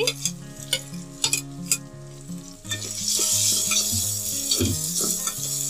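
A spatula scrapes and taps shredded boiled chicken off a plate, with a series of clicks. About three seconds in, a loud, steady sizzle starts as the chicken drops into hot oil with frying onions and is stirred in the wok.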